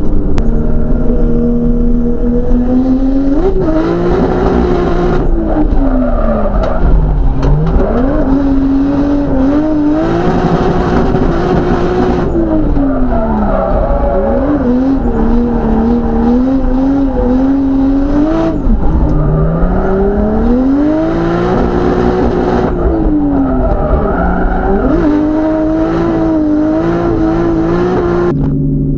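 Drift car's engine heard from inside the cabin, revving up and falling back again and again as it is driven hard through corners, with stretches of tyre squeal as the car slides.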